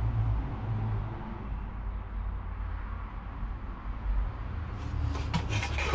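Steady low rumble, with rustling and a few small clicks near the end as something is handled.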